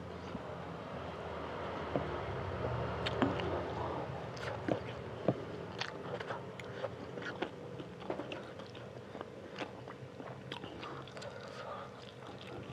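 Close-up chewing of spicy fried instant noodles, with many short wet mouth clicks and smacks, as a raw green bird's-eye chili is bitten into along with the noodles. A faint steady hum runs underneath.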